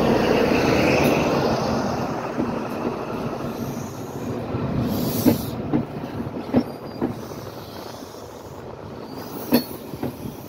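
Class 43 HST power car passing close by, its diesel engine loudest at first and fading as the coaches roll past. Sharp wheel clicks over the rail joints come through, several in pairs as each bogie goes over.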